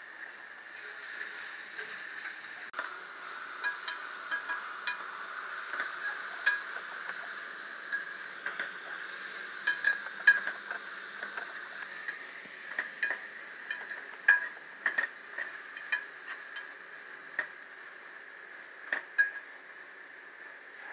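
Chicken masala sizzling in a steel pot while a spoon stirs it, with frequent short clinks and scrapes of the spoon against the pot.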